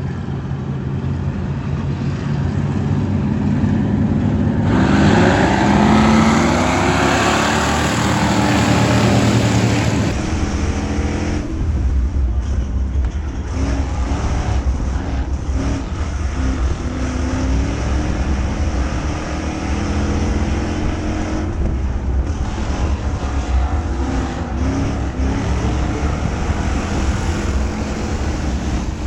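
Several dirt-track race car engines running together, rising in pitch and getting louder about five seconds in as the field accelerates, then carrying on at a steady high run.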